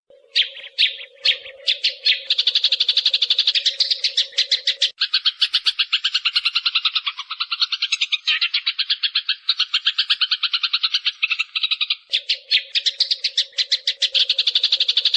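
Sparrows chirping in a dense, rapid chatter, used as a decoy call to lure birds for trapping. It starts with a few separate chirps, then runs on as a fast stream of high chirps. A low steady hum runs under it for the first five seconds and again near the end.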